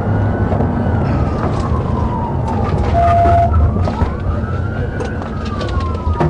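Police car siren on a slow wail, rising and falling over about four to five seconds, over heavy engine and road rumble at speed. A short steady tone sounds briefly about three seconds in.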